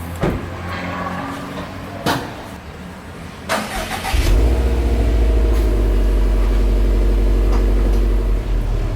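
Two sharp knocks, then about three and a half seconds in a 2017 Subaru WRX STI's turbocharged 2.5-litre flat-four is started and settles into a loud, steady run.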